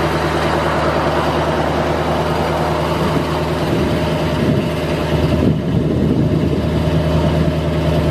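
Chevrolet 350 V8 gasoline engine of a 1977 Chevrolet C60 grain truck idling steadily. The sound shifts slightly about two-thirds of the way through, growing a little louder with less hiss.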